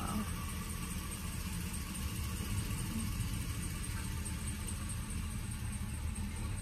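Steady low rumble of an idling vehicle engine, heard from inside a car's cabin.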